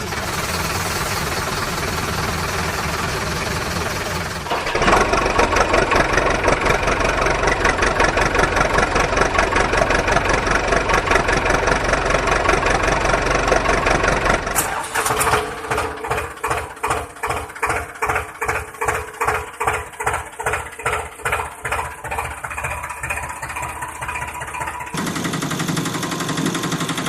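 Vehicle engine sounds that switch abruptly between different engines every few seconds. For the middle stretch they become a slow, even chugging of about two beats a second.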